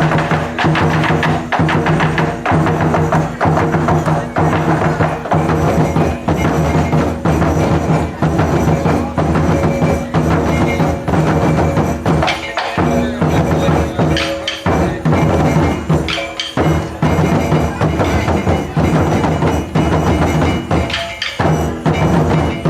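Percussion music with a fast, dense run of drum and wood-block-like strikes, broken by a few short breaks in the second half.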